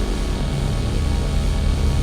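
Steady, deep electrical hum of an industrial power-plant soundscape: a low drone of several steady tones under a rumbling hiss, with a faint high whine above, unchanging throughout.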